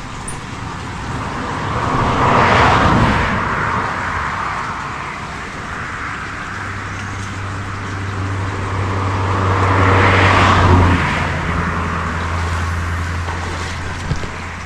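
Two vehicles passing by one after the other, each rising to a peak and fading away, the first about two and a half seconds in and the second about ten seconds in; a low engine hum sets in between them.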